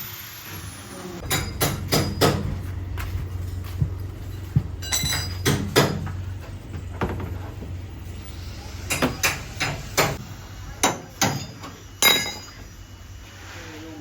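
Hammer blows on car bodywork, struck in short irregular groups of two to four with pauses between, over a low steady hum.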